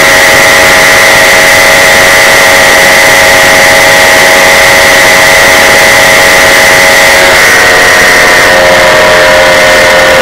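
Paramotor engine and propeller running steadily at a high, droning pitch, very loud on the microphone, with the engine note shifting slightly about three-quarters of the way through.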